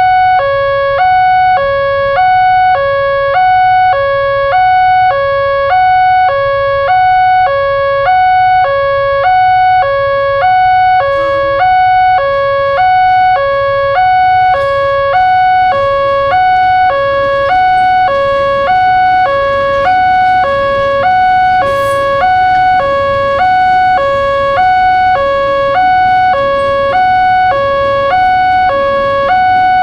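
Indonesian railroad crossing warning alarm sounding: an electronic two-tone signal alternating evenly between a higher and a lower pitch, about once a second, warning that a train is approaching.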